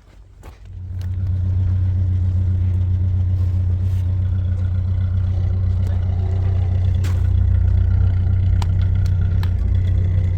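An engine starts up under a second in and then runs steadily with a loud, low hum.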